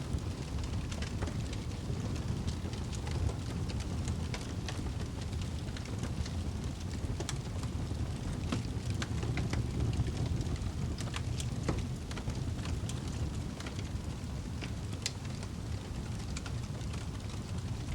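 Fire burning in a fireplace: a steady low rumble of the flames with irregular sharp crackles and pops scattered throughout. A sharper pop comes near the end.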